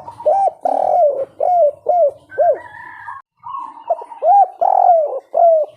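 Spotted dove (tekukur) singing its 'kuk 3' style coo. Two phrases of short, arched coos in quick succession, the second starting just after the three-second mark.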